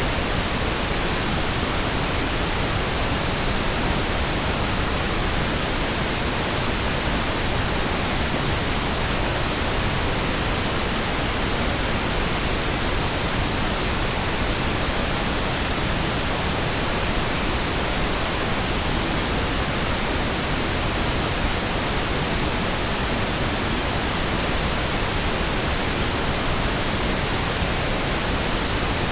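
Steady pink noise: an even, smooth hiss spread across the whole range, with no changes or breaks.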